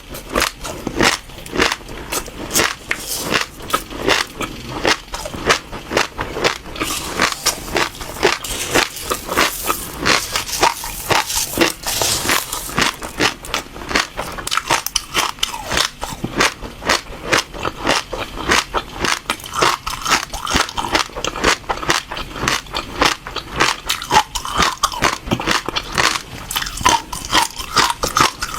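Close-miked chewing of crunchy seeds: a steady run of sharp crunches and crackles, several a second, as the seeds are bitten and crushed between the teeth.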